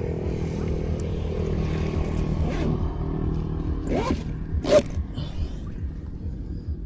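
A motor running steadily with a low hum, and two brief sharp noises about four and five seconds in.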